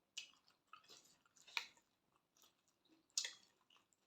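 Close-up chewing and biting of a spicy glass-noodle salad with squid: a string of short, soft mouth sounds, with two louder bites about one and a half and three seconds in.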